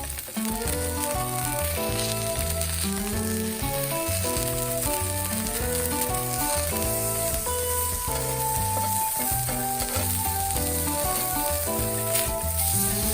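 Food sizzling steadily in a hot pan, under background music of a bright melody over a rhythmic bass line.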